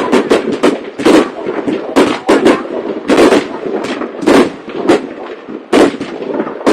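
Aerial fireworks exploding in a rapid, irregular string of loud bangs, each followed by a short rumbling echo.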